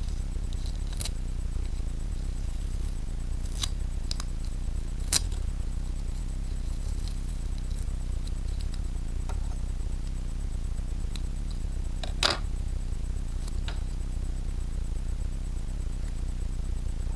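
Scattered light clicks and taps, a handful over several seconds, over a steady low hum; the loudest clicks come about five seconds in and again about twelve seconds in.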